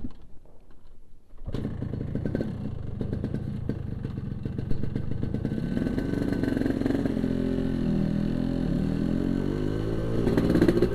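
Yamaha RX-King single-cylinder two-stroke motorcycle engine. It comes in about a second and a half in and keeps running, its revs rising and falling in the second half.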